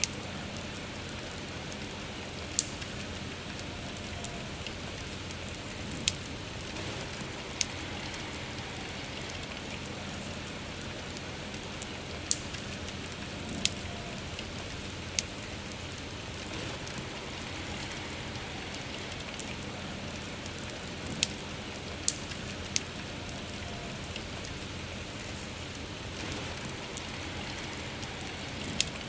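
Steady rain falling, with sharp crackles and pops from a wood bonfire every few seconds.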